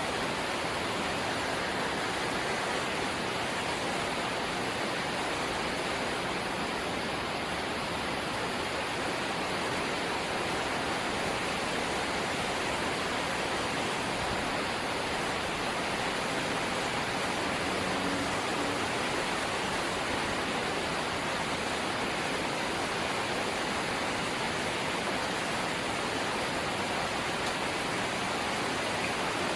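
Light rain falling steadily, a continuous even hiss with no separate drops, tones or other events standing out.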